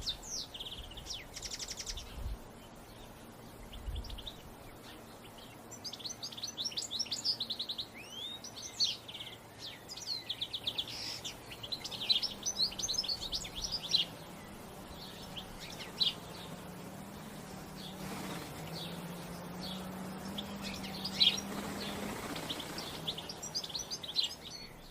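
Several wild birds chirping and singing in quick trilled phrases, again and again, over a faint steady low hum.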